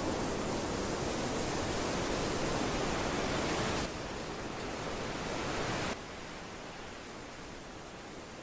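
Steady rushing noise of moving water. It drops abruptly to a quieter, thinner rush twice, at about four and six seconds in.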